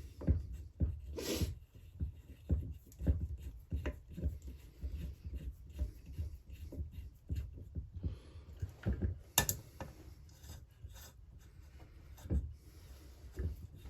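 Irregular clicks, knocks and scraping of a hand tool and metal parts while the bolts of a chainsaw's two-piece crankcase are run down and tightened, with a sharp click about nine seconds in.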